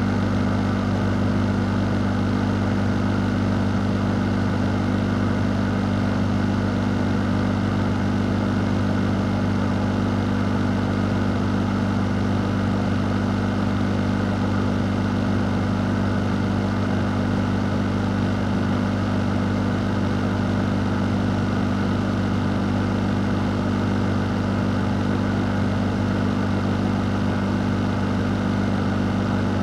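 Fan running steadily as white noise: a constant low motor hum under an even rush of moving air, with no change in speed.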